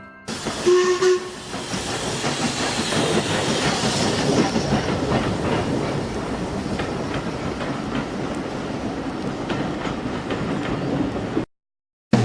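A train running on track, a steady rolling noise with many small clicks over the rail joints, and a brief steady tone about a second in. It cuts off suddenly near the end.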